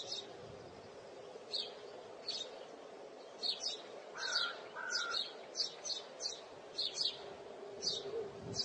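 Small birds chirping in short, high, irregular chirps, with a lower two-note call about four seconds in, over a faint steady background hum, as in an outdoor birdsong ambience.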